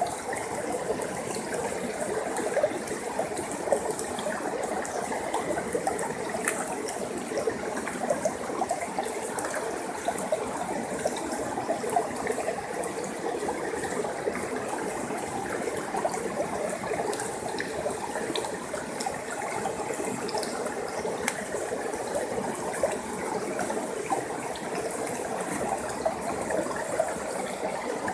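Stream water flowing and babbling steadily, with a dense texture of small gurgles and splashes.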